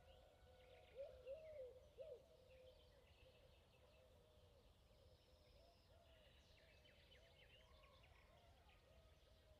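Faint birdsong: short arching notes repeated in quick runs, a cluster about a second in and more from the middle on, with fainter higher chirps, over a low steady background rumble.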